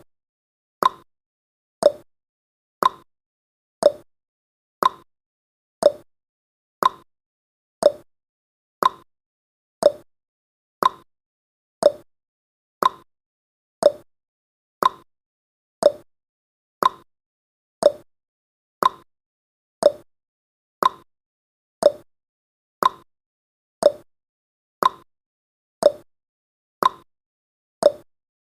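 Countdown timer's tick sound effect: one short, identical tick every second, keeping a steady beat.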